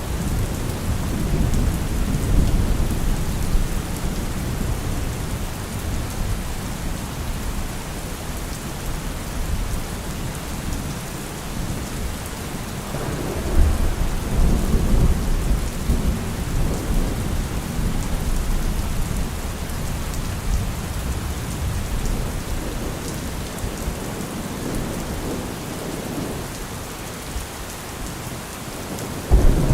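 Steady rain falling in a thunderstorm, with low rolling thunder swelling and fading, loudest near the start, again about halfway through, and once more right at the end.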